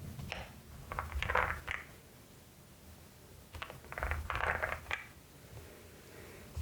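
Two flurries of keystrokes on a LEOBOG HI75 mechanical keyboard with Nimbus V3 switches, one about a second in and one about four seconds in, each a quick run of clicks over a low knock.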